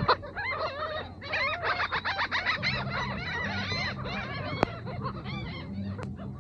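A flock of seagulls calling over one another, many short squawks overlapping without a break. A low steady hum joins underneath after about two and a half seconds.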